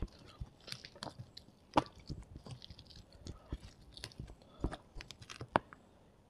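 Close-miked eating sounds: a mouth chewing with wet smacks and sharp clicks and crunches, along with fingers squishing rice on a plate. The clicks come irregularly and stop shortly before the end.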